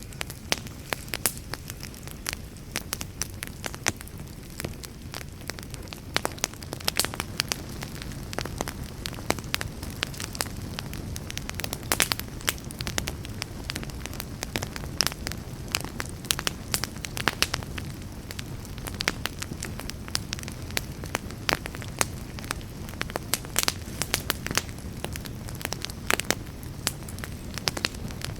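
Wood fire burning in a fireplace, a steady low rumble of flames with frequent irregular sharp crackles and pops.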